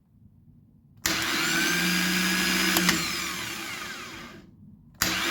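Rebuilt Toyota Hilux starter motor spinning freely on a test bench. It cuts in suddenly about a second in and runs steadily with a whine. Near the three-second mark a click sounds, and it winds down with a falling whine. It cuts in again near the end. It is running well after being cleaned and reassembled.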